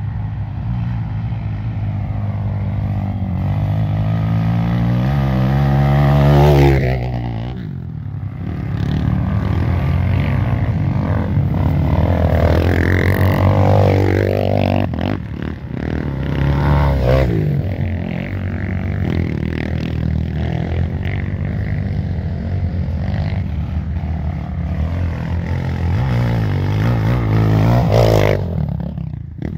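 Off-road dirt bike engine running under load, its revs rising and falling as the throttle is worked, climbing to a peak about six seconds in, dropping off, and peaking again near the end.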